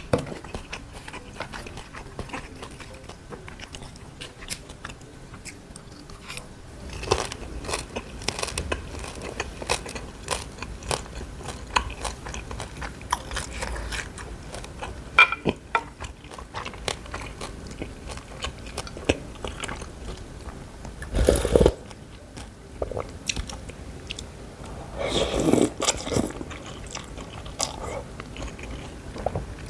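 Close-miked chewing of crispy fried Vietnamese spring rolls (cha gio): a run of crunches and wet mouth sounds, with louder clusters of crunching partway through.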